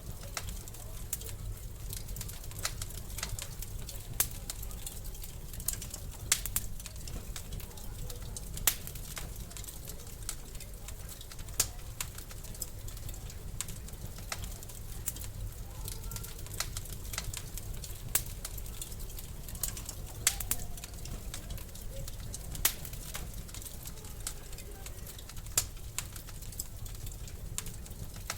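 Wood fire in a fireplace crackling: sharp, irregular pops every second or two over a steady low rumble.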